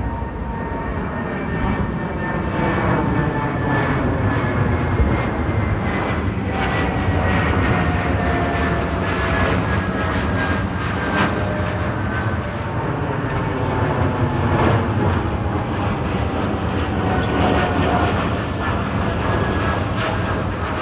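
Jet airliner engines passing low overhead: a loud, steady roar with whining tones that slowly fall in pitch as the plane goes by.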